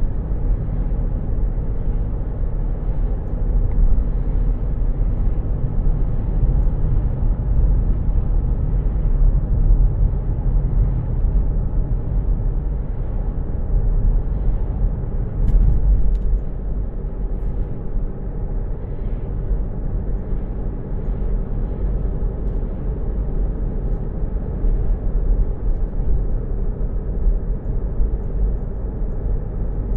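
Car driving: a steady low rumble of engine and road noise. A brief click sounds about halfway through.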